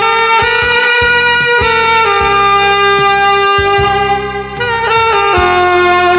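Saxophone playing a slow melody in long, held notes over a backing track with a steady beat, moving to a lower note about five seconds in.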